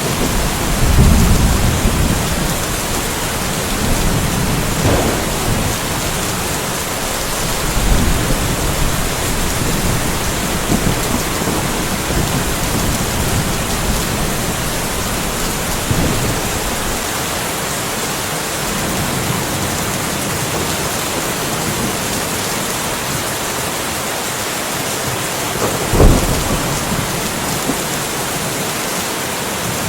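Steady rain falling in a light thunderstorm, with thunder rumbling low about a second in and again around eight seconds, and a short, loud clap of thunder about twenty-six seconds in.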